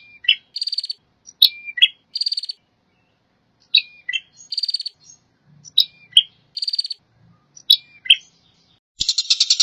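Recorded bird calls repeating one phrase about every second and a half: a sharp high note with a short dipping slur, then a short buzzy rattling trill. About nine seconds in, it cuts abruptly to a continuous fast buzzy rattle.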